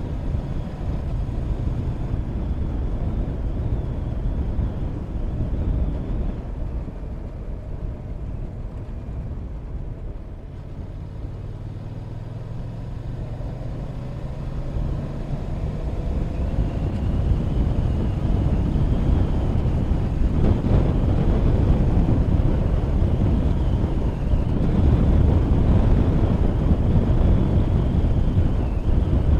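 Motorcycle engine running under way, mixed with heavy wind rush on the microphone. The sound eases off about a third of the way in, then the engine note rises and everything grows louder as the bike picks up speed.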